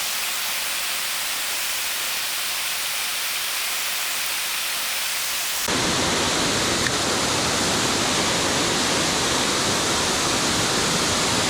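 Steady rushing of a small mountain waterfall pouring into a deep creek basin. About halfway through the sound abruptly becomes fuller and deeper.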